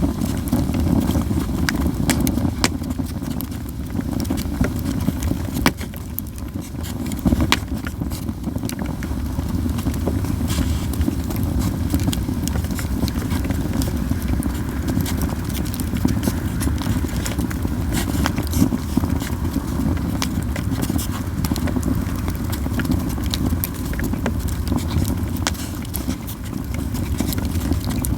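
Japanese yew campfire crackling, with frequent sharp pops and snaps over a steady low rushing sound.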